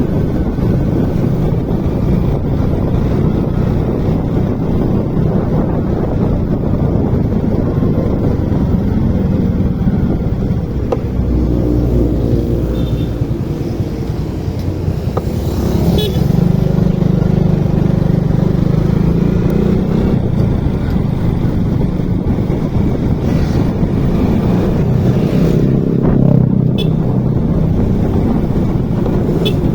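Motorcycle being ridden, its engine running steadily under heavy road and air rumble; the engine note dips briefly and then grows louder about halfway through.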